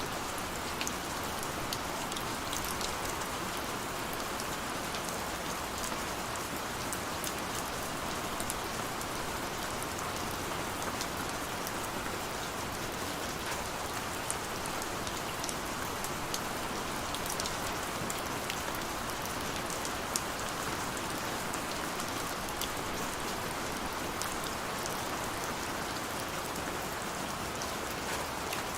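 Steady rain falling, an even hiss dotted with small, sharp drop taps.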